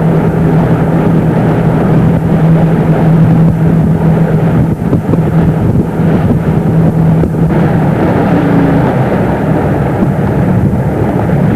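Motorboat engine running steadily under heavy wind noise on the microphone; the engine's low hum fades about eight seconds in.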